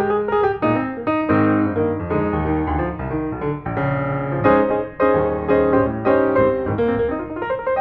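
Background piano music, a run of struck notes over a lower bass line.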